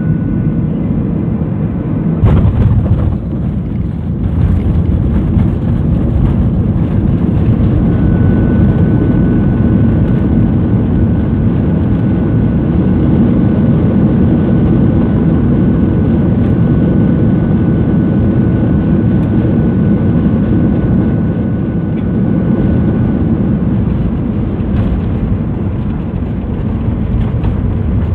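Steady low rumble of engines and airflow inside a passenger airliner cabin in flight, with a faint steady whine above it and a brief knock about two seconds in.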